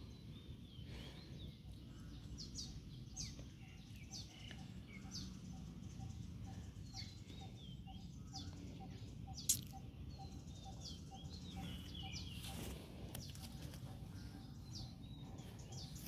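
Small birds chirping outdoors, short high calls scattered throughout over a faint low background hum. A single sharp click about nine and a half seconds in.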